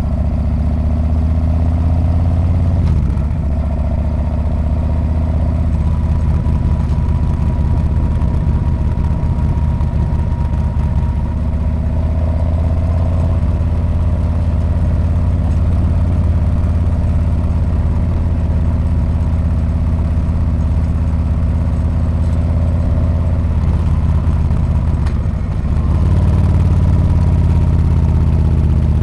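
Harley-Davidson Street Bob's V-twin engine and exhaust running steadily while riding. It eases off briefly about three seconds in and again near the end, then comes back louder.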